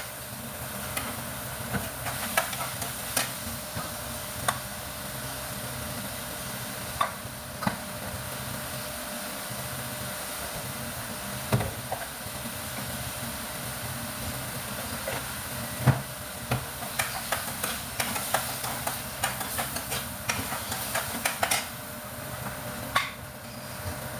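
Food sizzling in a frying pan while being stirred, with irregular scrapes and taps of a utensil against the pan.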